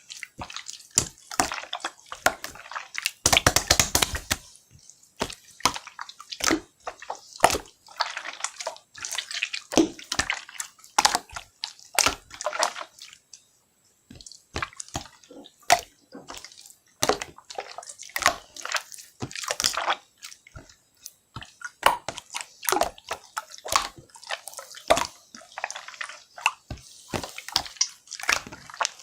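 Toy slime being squeezed and stretched by hand, making irregular wet clicks, pops and squelches, with a denser, louder squelch about three seconds in.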